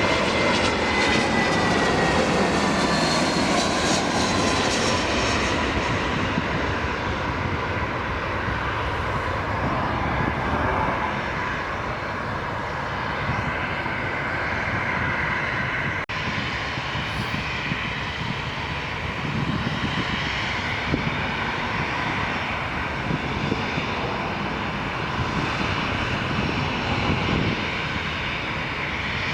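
Jet airliner engines running loud and steady close by. A whine falls in pitch over the first five seconds or so, and then a steady roar of engine noise continues.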